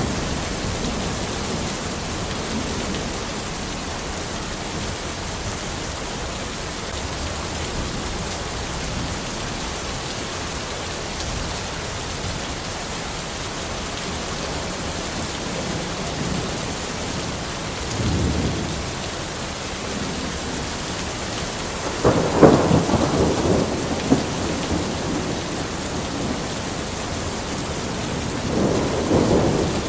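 Steady heavy rain falling on a forest, with rolls of thunder. A short rumble comes about 18 seconds in, the loudest, crackling peal about 22 seconds in, and another rumble builds near the end.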